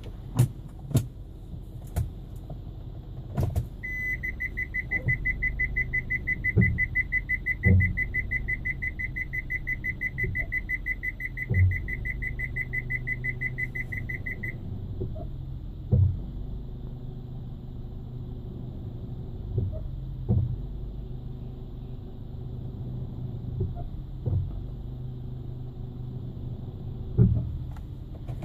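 Hyundai ix35 with a steady low hum and a short knock every one to four seconds, the brake noise being recorded. From about four seconds in, a rapid high electronic warning beep sounds for about ten seconds, then stops.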